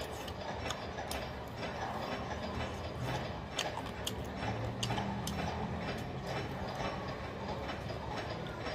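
Close-up chewing and lip-smacking of a person eating fried food with the fingers: irregular wet clicks and crunches, several a second, over a low steady hum.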